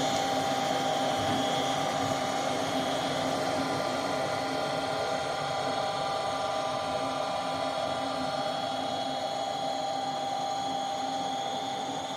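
A gas furnace's exhaust (draft inducer) fan motor running with a steady whine and hum, with the furnace panels off. It is the first stage of the furnace's start-up sequence, before the igniter lights.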